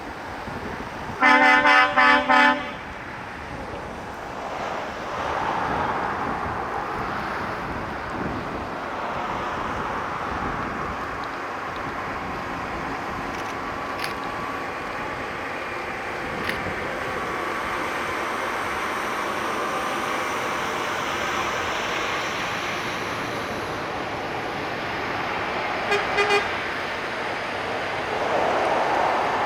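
Truck horn sounding four quick loud blasts about a second in, then the steady noise of heavy trucks rolling past. Near the end a fainter horn gives three short toots.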